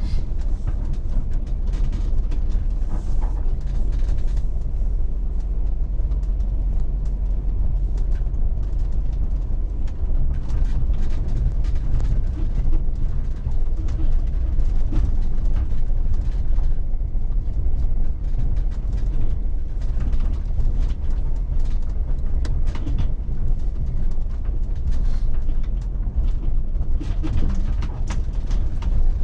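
Vehicle driving slowly over a rough dirt track, heard from inside the cab: a steady low engine and road rumble with scattered small knocks and rattles.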